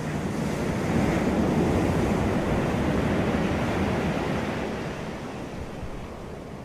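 Sea waves washing onto a beach: a surge of surf swells about a second in and fades away over the last couple of seconds, with wind buffeting the microphone.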